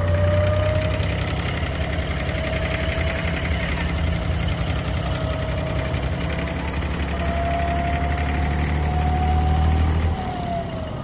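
Boat engine running steadily: a low drone with a faint whine above it that wavers slightly in pitch, easing off briefly near the end.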